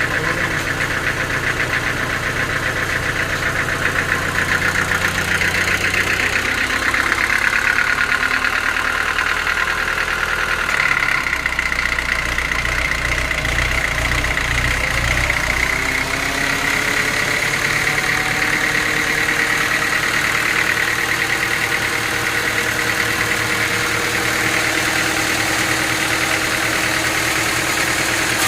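Engine-driven sawmill machinery running: a steady engine drone with a high whine over it, and a tone that rises slowly about halfway through.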